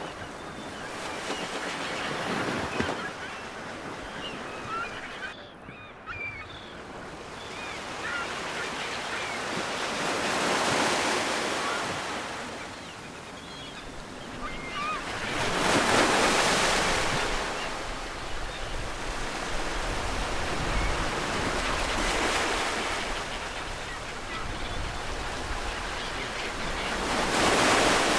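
Ocean surf on the shore: a steady wash of water that swells every five to six seconds as waves break and roll in.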